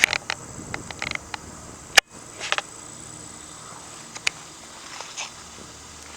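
Insects buzzing steadily at a high pitch, with scattered short rustles and clicks and one sharp click about two seconds in.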